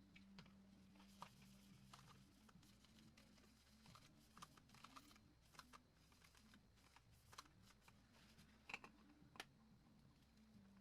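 Faint, irregular light clicks and taps, a few sharper ones near the end, over a low steady hum.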